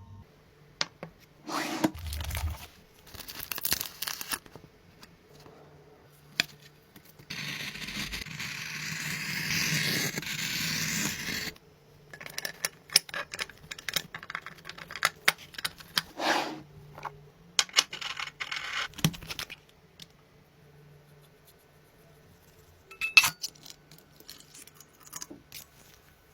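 Hands-on work noises: scraping, rubbing and tearing sounds with scattered clicks, a steady hiss lasting about four seconds in the middle, and a sharp knock near the end.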